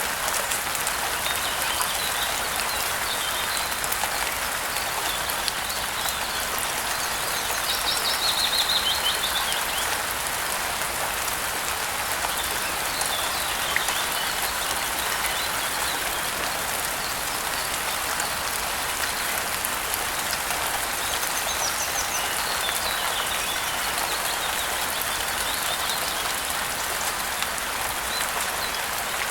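Steady rainfall hissing, with birds chirping now and then over it, one louder run of chirps about eight seconds in.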